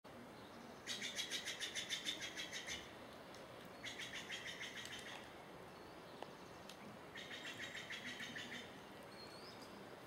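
A songbird singing a rapid trill of evenly repeated high notes, three times in a row with a pause of about a second between them, the first trill the longest and loudest.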